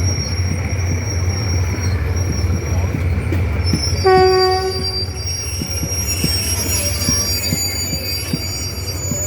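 Train running over the rails with a steady low rumble, wheel clacks and a high, thin wheel squeal. The horn sounds once, about four seconds in, for about a second.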